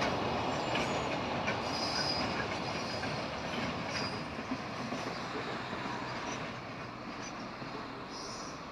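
Freight train running across a railway bridge, a continuous rumble of wheels that slowly fades as the train moves away. Brief high wheel squeals come through a few times.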